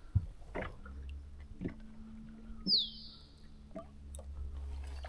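A bird's single clear whistle, dropping in pitch, about halfway through, over a low steady hum and a few light clicks and knocks.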